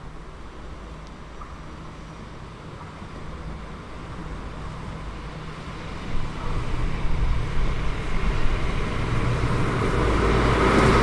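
A train approaching, its rumble and running noise growing steadily louder and loudest near the end.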